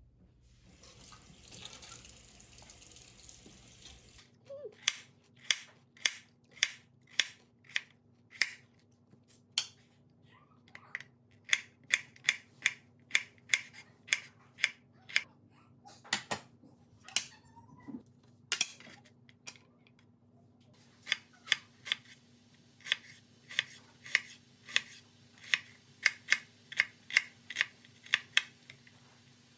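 A long series of short, sharp snips or clicks, one or two a second, with a break of a few seconds in the middle. It is preceded by about three seconds of soft hiss.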